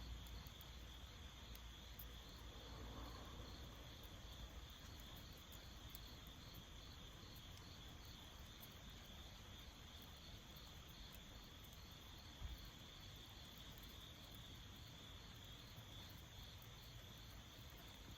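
Crickets chirping faintly and steadily, in an even pulsing rhythm of about two to three pulses a second, with one soft thump partway through.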